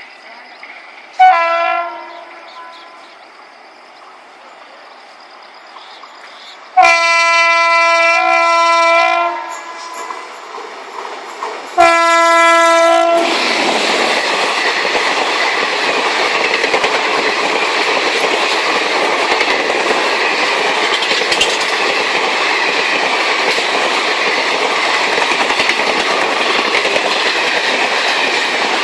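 Indian Railways train horn sounding three times: a short blast about a second in, a long one of about two and a half seconds, then a shorter one. The train then runs past with a loud, steady rush of wheels and cars on the rails.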